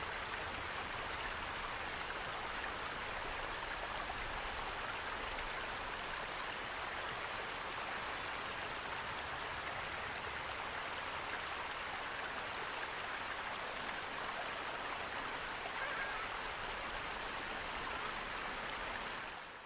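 Steady rushing sound of flowing water, like a stream or waterfall, fading out at the very end.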